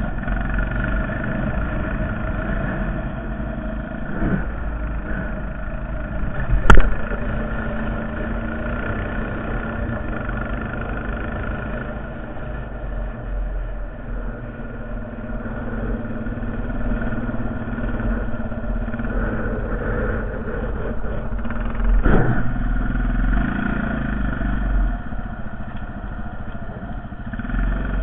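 Honda Foreman TRX450ES ATV's single-cylinder engine running steadily while plowing snow, its level rising and falling a little. A sharp knock about seven seconds in and a smaller one near twenty-two seconds.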